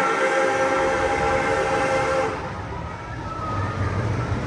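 Amusement-park train's whistle sounding a held chord of several notes that cuts off a little over two seconds in, followed by the rumble of the train running.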